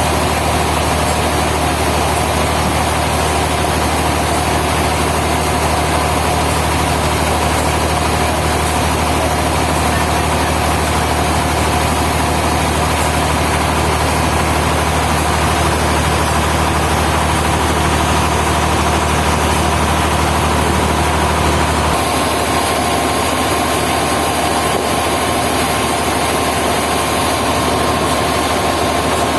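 Sawmill machinery running: a loud, steady engine-like drone. About three-quarters of the way through, the low hum drops away abruptly and the sound shifts higher.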